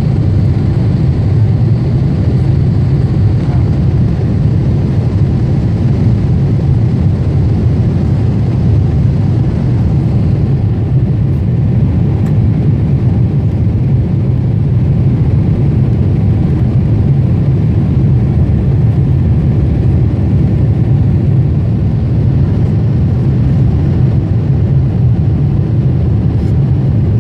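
Steady low rumble inside the cabin of a Boeing 747-8 airliner, the engines and airflow heard from a window seat, unchanging throughout.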